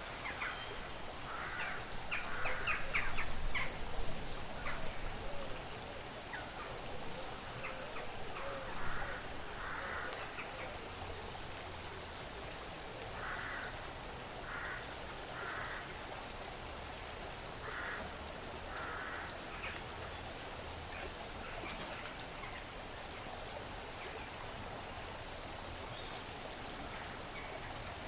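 Woodland ambience: birds give short harsh calls, a cluster in the first few seconds, then spaced about a second apart. Scattered sharp clicks and snaps sound over a steady soft hiss.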